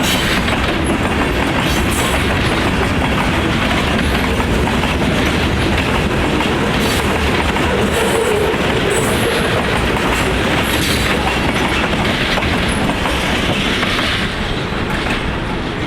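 Freight cars rolling past close by, wheels clicking over the rail joints in a steady clickety-clack that eases off near the end.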